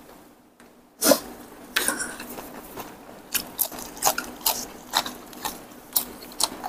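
Close-up chewing of frog meat with small frog bones crunching between the teeth. After about a second of quiet there is a sharp first crunch, then a run of short, irregular crunches and clicks.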